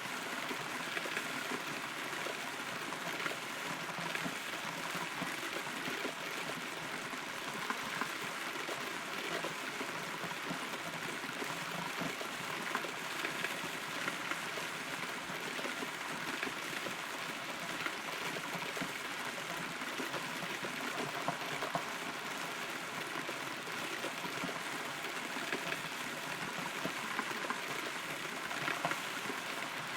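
Steady rain heard from inside a hollow rotten tree trunk: an even hiss of falling rain with scattered, irregular drop taps.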